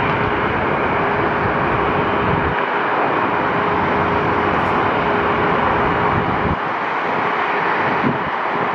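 Jet engine noise of an Airbus A319 airliner on landing approach, a steady loud rush with a thin steady whine.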